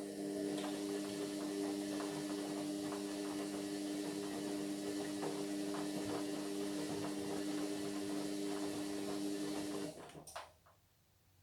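Indesit MyTime washing machine running for about ten seconds with a steady hum, a wash of water noise and small clicks, then cutting off abruptly.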